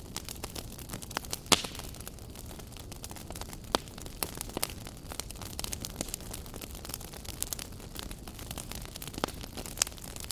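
Wood fire burning in a fireplace: a steady hiss under irregular crackles and pops, the sharpest pops about one and a half seconds in and near four seconds.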